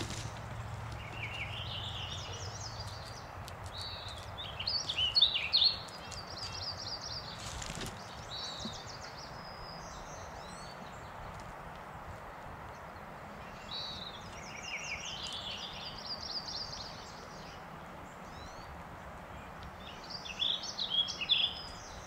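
Songbirds singing, with short bursts of quick chirps and warbles recurring every few seconds over a steady outdoor hiss.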